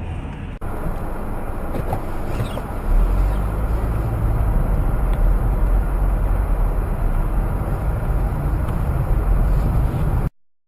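Heavy truck running, a steady noisy engine sound with a deep low rumble that grows stronger about three seconds in; it cuts off abruptly near the end.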